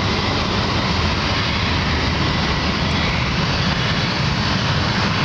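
Jet airliner engines running at take-off power: a steady, loud roar.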